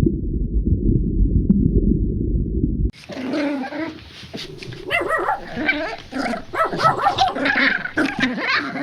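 A low muffled rumble for about three seconds, then an animal's many short, high calls that rise and fall in pitch, several overlapping.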